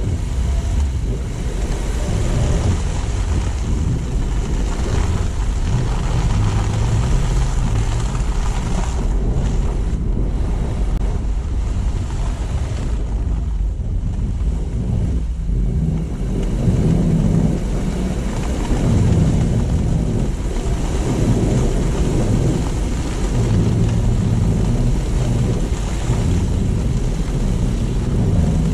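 Car driving along: steady road and tyre noise with a low engine rumble, and wind buffeting the microphone.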